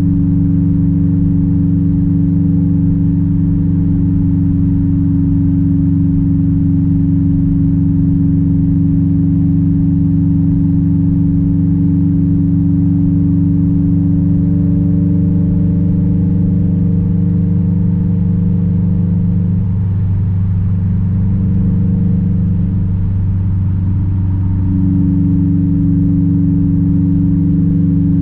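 Straight-piped 2006 Subaru WRX STI's 2.5-litre turbocharged flat-four running at a steady engine speed, a constant low exhaust drone. About twenty seconds in the note softens for a few seconds, then comes back at the same pitch.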